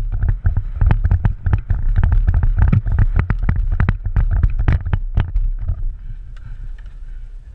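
Quick, irregular footfalls and rattling gear of a player on the move, over wind rumbling on the microphone; the knocking eases off about six seconds in.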